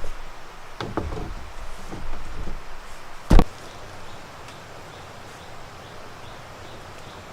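A few knocks, then one sharp, loud knock a little over three seconds in. After it comes a quieter stretch with faint chirps repeating at an even pace.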